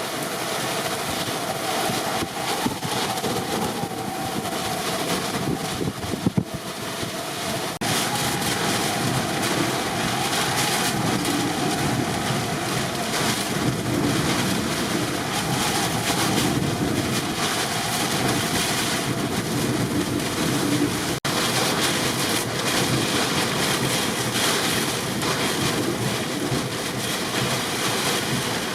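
Hurricane-force wind, a steady loud rush of noise buffeting the microphone, growing louder about eight seconds in.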